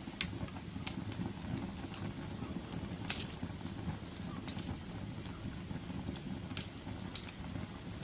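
Wood fire burning with a low steady rumble and irregular sharp crackles and pops, the loudest pop about three seconds in.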